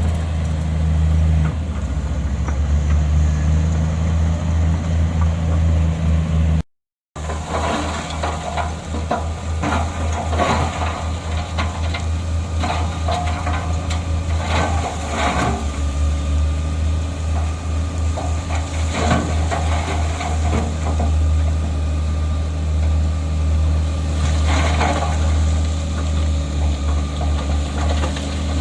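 Heavy diesel earthmoving machinery running, its engine a steady low drone, with scattered metallic clanks and knocks. The sound breaks off completely for a moment about seven seconds in.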